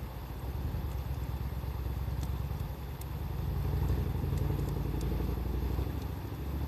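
A low, steady engine rumble from a vehicle, over the occasional faint crackle and pop of a wood fire.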